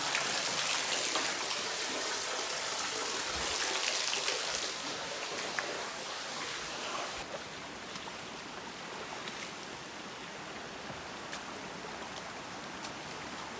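Floodwater from melting snow running and trickling, louder for the first few seconds and then settling to a softer flow with scattered small ticks.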